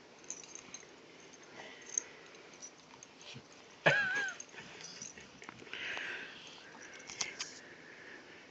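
Pit bull licking and snuffling at a Siamese kitten's fur, with the kitten giving one short, wavering mew about four seconds in.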